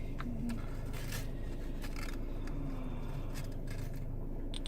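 Scattered light clicks and scrapes from small objects being handled, over a steady low hum.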